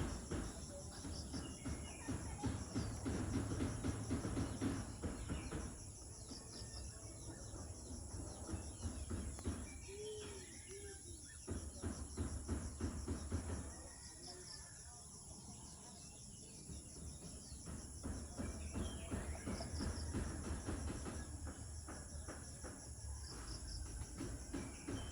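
Crickets and other insects shrilling steadily in a high, pulsing chorus. Stretches of rapid crackling, like rustling or handling noise, come and go over it, busiest early and again near the end.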